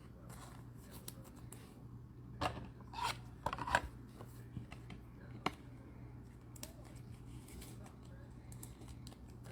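Trading cards being handled and slid against one another, with light scattered clicks and brief rubbing swishes over a low steady hum.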